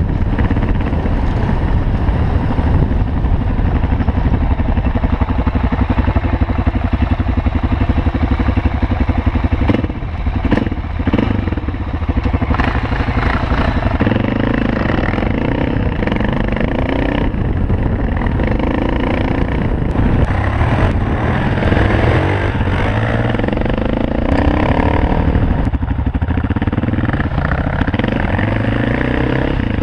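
Cagiva W16 single-cylinder four-stroke dirt bike engine running under way, heard from the bike itself, engine speed rising and falling with the throttle. It is briefly let off about ten seconds in.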